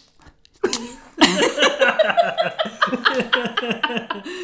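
A person imitating a sound with the mouth: a quick run of rhythmic voiced pulses, about four a second, mixed with wet mouth clicks, starting about a second in.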